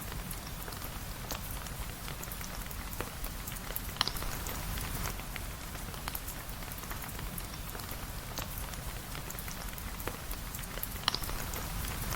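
Steady rain falling, with a dense patter of small drops and scattered sharp ticks; two louder pops stand out, about four seconds in and near the end.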